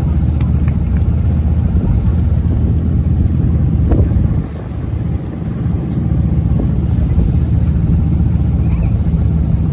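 Engine of the vehicle carrying the camera running steadily at low speed, with wind noise on the microphone; it eases off briefly about halfway through.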